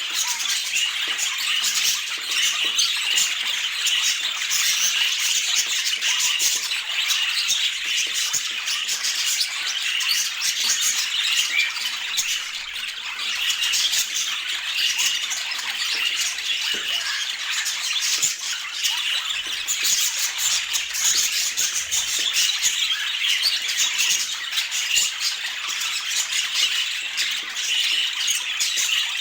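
Budgerigars chattering and squawking, a dense, unbroken stream of short, high calls overlapping one another.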